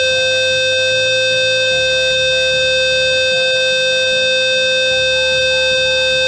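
System Sensor P2RL-LF low-frequency horn strobe sounding its continuous tone: a steady, buzzy 520 Hz square-wave tone held without a break. Faint background music plays underneath.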